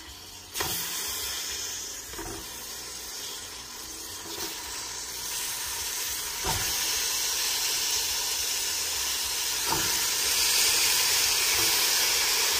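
Swai fish steaks sizzling and hissing as they are laid into hot caramelized sugar and garlic in a stainless steel pot. The hiss grows louder as more pieces go in, with a few short knocks along the way.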